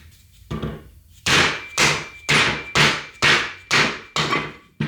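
A hammer strikes the metal front hub and rotor assembly of a Toyota 4Runner in a regular series of about eight blows, roughly two a second, the first one lighter. Each blow is sharp and leaves a brief metallic ring.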